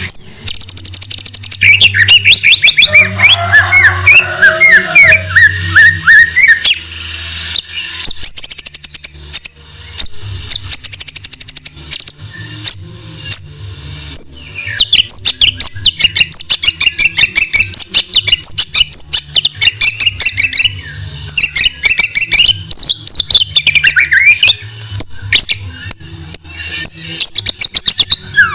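White-rumped shama (murai batu) singing a long, varied song: rapid chattering trills and clicks mixed with clear whistled notes and sweeping glides, running almost without pause.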